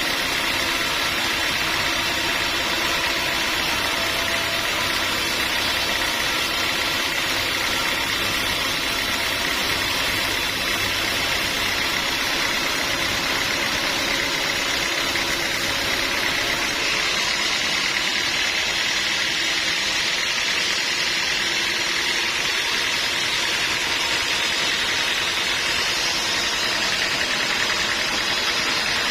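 Sawmill machinery running steadily: an even motor noise with a constant whine and no breaks or strokes.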